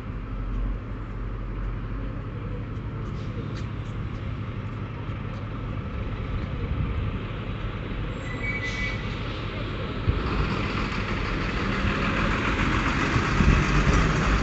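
Suburban electric train running, a steady low rumble. A short high beep comes about eight seconds in, and a rising hiss builds from about ten seconds.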